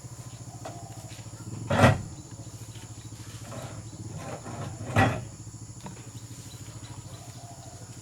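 An engine running at idle with a steady, rapid beat. Two short, loud bursts stand out, about two and five seconds in.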